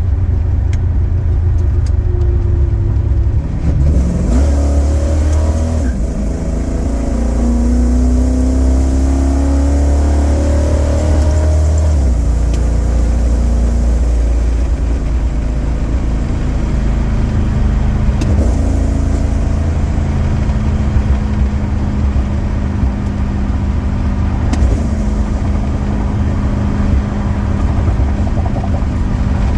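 A 1969 Chrysler New Yorker's 400 V8 runs under way on the road, its exhaust going through Dynamax Ultraflow mufflers dumped ahead of the rear axle. The engine note climbs under acceleration from about four seconds in, drops back abruptly around twelve seconds in, and then holds a steady cruise.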